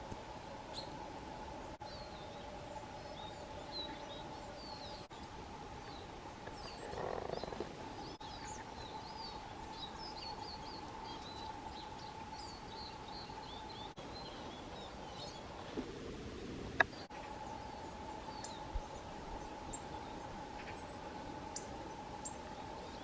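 Small songbirds giving short, high chirps in quick series, busiest in the middle, over a faint steady hum. A few sharp clicks come later.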